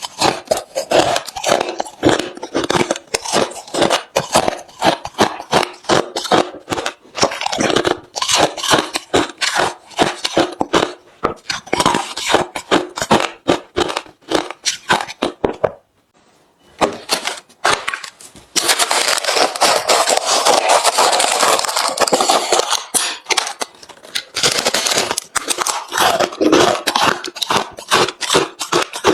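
Close-miked chewing of hard, refrozen crushed ice: rapid, loud crunches one after another. There is a brief pause a little past halfway, then a few seconds of dense, continuous crunching before the separate bites resume.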